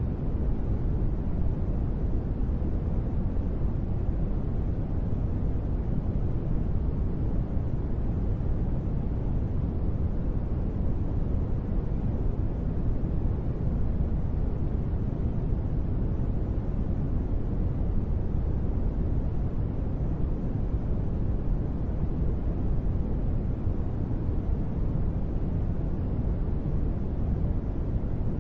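Steady, unbroken rushing noise, deep and muffled with little treble, from a sleep-sound track of gentle rain.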